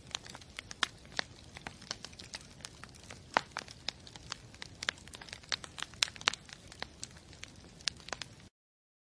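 Bonfire crackling, with irregular sharp pops and snaps over a steady hiss; it cuts off abruptly near the end.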